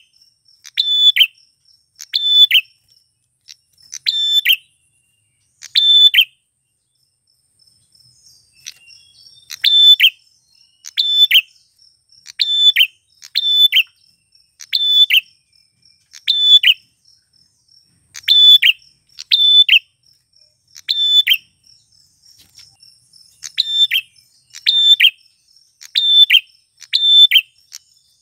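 Male prinia (prenjak klawu) giving its loud, sharp call over and over, about once a second, with a short break a quarter of the way through. A faint steady high insect buzz sits between the calls.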